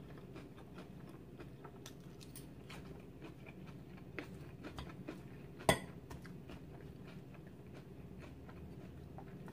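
Close-miked chewing of a mouthful of salad: soft crunching and faint mouth clicks, with one sharper click a little past halfway.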